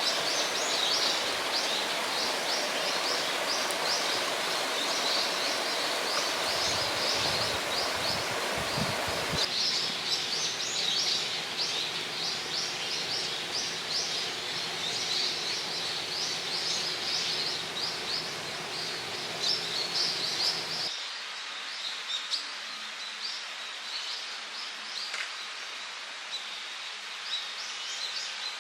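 Small birds chirping and twittering continuously, in dense, rapidly repeated high chirps, over a steady outdoor rushing noise. The rushing noise drops off sharply about 21 seconds in while the chirping goes on.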